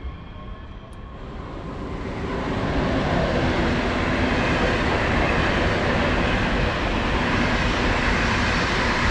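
A train's rushing, rumbling noise builds up over about two seconds, then holds steady and loud.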